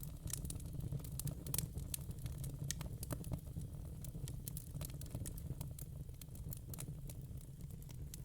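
Wood fire in a fire pit crackling: many irregular sharp pops and snaps over a low, steady rumble.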